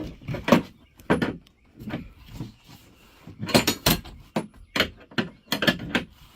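A series of irregular sharp knocks and clanks of hand tools and metal parts being worked, a few of them in quick clusters about a second apart.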